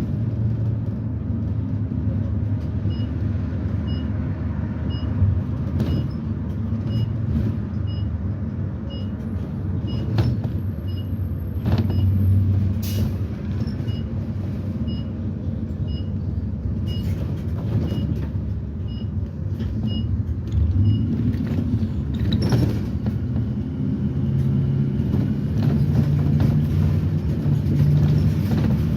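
Interior ride sound of a 2010 Blue Bird Vision school bus, its propane-fuelled GM Vortec V8 running under way with road rumble and occasional knocks and rattles. A regular high tick sounds about one and a half times a second through the middle. The engine note rises near the end as the bus pulls harder.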